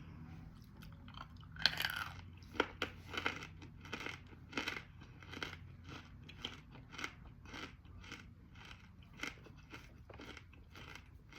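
Hard edible clay being bitten and chewed, the crunches coming steadily at about one and a half a second, with the sharpest bite about a second and a half in. The piece breaks down into small shards as it is chewed.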